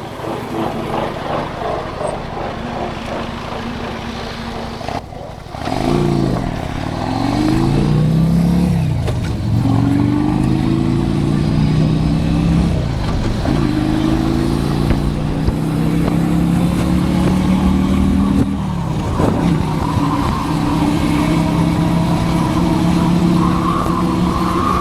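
Motorcycle engine heard from the rider's helmet, running quietly at first, then pulling away hard after a short lull about five seconds in. Its pitch climbs and drops back three times as it shifts up through the gears.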